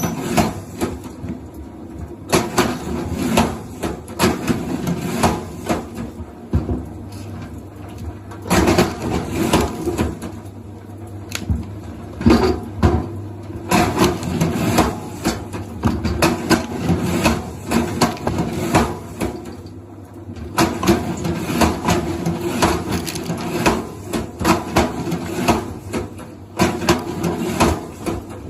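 Irregular knocking and clattering, many sharp hits in uneven bursts, over a steady low hum.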